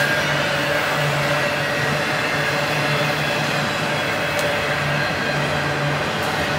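Double-stack intermodal freight cars rolling past close by: a steady rumble and hiss of steel wheels on the rails, with a couple of faint clicks.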